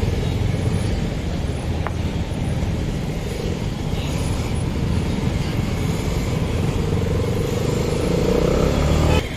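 Motorcycle riding in slow town traffic: a steady rush of wind over the microphone with the engine running underneath, its note rising over the last few seconds.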